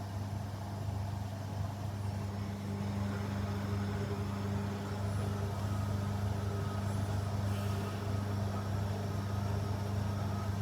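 Washing machine running with a steady low hum.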